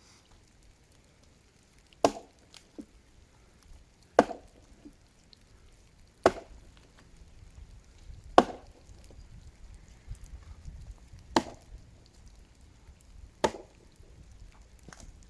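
Axe blows into the trunk of a dead tree being felled: six heavy, sharp strikes about two seconds apart, with a few lighter knocks between them.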